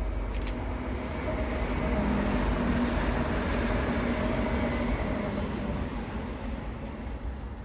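Passenger train passing on the line, a rumble of wheels on rails that swells over the first couple of seconds and eases off towards the end, with a faint steady hum above it.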